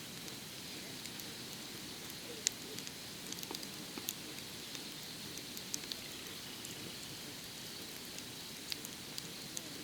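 Wood fire crackling: a steady hiss with scattered sharp pops, the loudest about two and a half seconds in.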